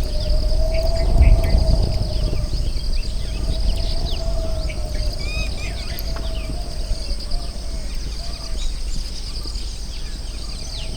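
Rural outdoor ambience: insects keep up a steady high drone while birds call in short chirps. A wavering mid-pitched tone runs under them and stops near the end, and wind rumbles on the microphone, strongest about a second in.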